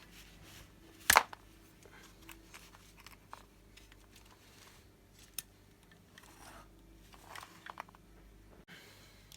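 Hand work with small parts: one loud sharp click about a second in, a smaller click near the middle, and scattered light clicks and rustles.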